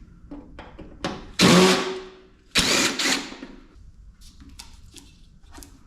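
Cordless drill backing screws out of a PTAC air conditioner's casing: two short runs of about half a second each, a second apart, with small clicks and knocks around them.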